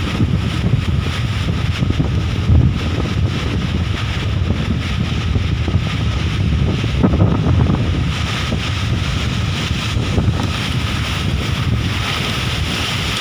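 Strong gusting wind buffeting a phone's microphone: a loud, continuous rumble that surges and eases with each gust.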